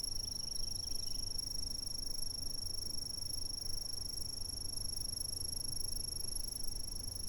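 Insects trilling in an unbroken, steady high-pitched drone, with a low rumble underneath.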